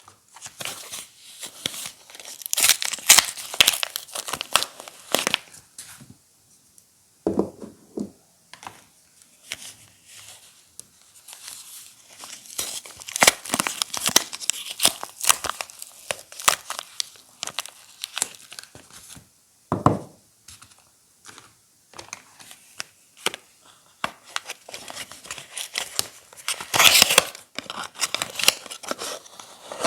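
Soap wrappers being torn open and crinkled by hand: irregular bursts of tearing and rustling, with a couple of dull knocks in between.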